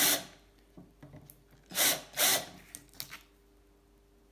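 Hand tool scraping metal in short strokes, chamfering the edges of small drilled lightening holes in a bicycle seat post: one stroke ending just after the start, two more near the middle, then a few light clicks.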